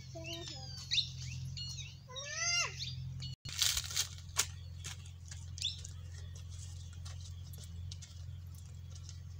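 Birds chirping in quick, rising-and-falling calls over a steady low hum for the first three seconds. After that come scattered short crackles of footsteps on dry fallen leaves.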